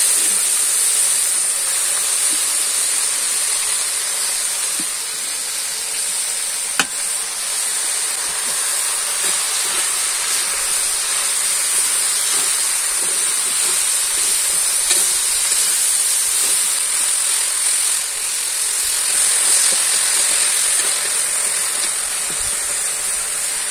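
Potatoes and chopped greens frying in oil in an iron karahi, a steady sizzling hiss as a ladle stirs them. One sharp click about seven seconds in.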